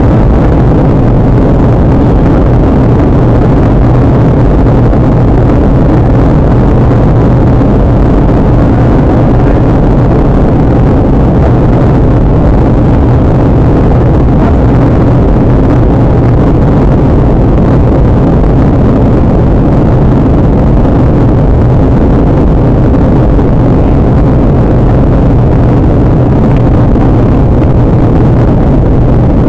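Steady cabin noise inside a Boeing 737-800: a constant low drone from the jet engines mixed with a rush of air, without pauses or sudden events.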